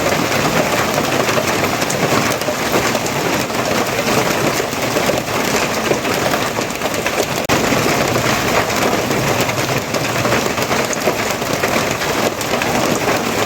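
Steady rain falling, a dense, even patter that keeps up without a break.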